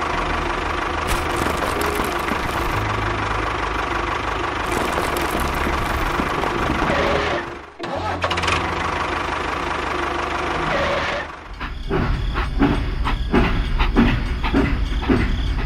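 An engine running steadily, with two brief drops in level. From about two-thirds in, it runs with a regular knocking pulse.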